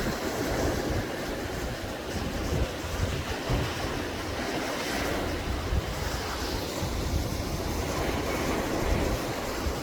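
Wind gusting across the microphone: a steady rushing noise with uneven low buffeting rumbles.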